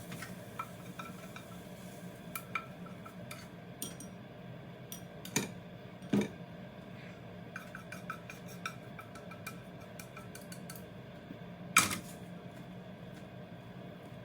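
Kitchen handling sounds: scattered light clinks and taps of utensils against dishes, with a few sharper knocks (about five seconds in, about six seconds in, and near the end), over a steady low hum.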